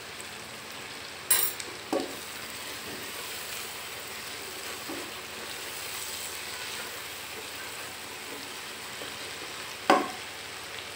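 Onion, ginger-garlic and tomato masala sizzling as it fries in a pot and is stirred with a spatula. Sharp knocks of the utensil against the pot come three times, the loudest near the end.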